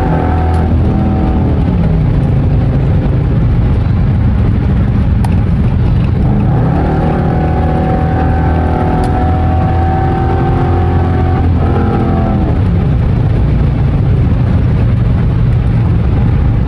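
Dodge Charger R/T's 5.7 Hemi V8 with mid mufflers and resonator removed, running loud under way. The engine note climbs as the car accelerates, then falls back about twelve seconds in.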